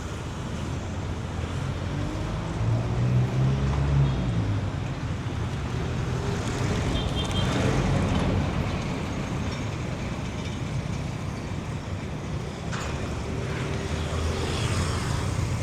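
City street traffic: motor vehicles passing close by, with an engine rumble loudest around three seconds in and further vehicles going past in the middle and near the end.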